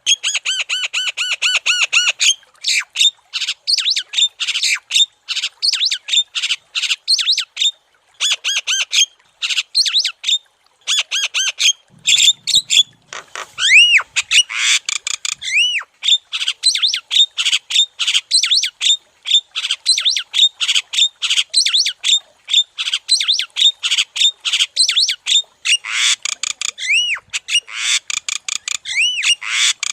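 Javan myna (jalak kebo) singing in full, busy song: fast runs of harsh, chattering notes mixed with whistles that rise and fall, breaking off only briefly a few times.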